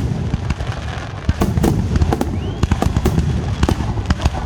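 Fireworks display: a rapid run of sharp cracks and bangs from bursting shells over a continuous low rumble, with a faint rising whistle about halfway through.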